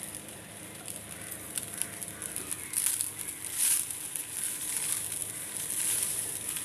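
Fried rice sizzling in a hot nonstick pan while chopped yardlong beans and green chillies are tipped in and stirred through with a spatula, with light scrapes and ticks of the spatula against the pan. The sizzle swells briefly about three seconds in.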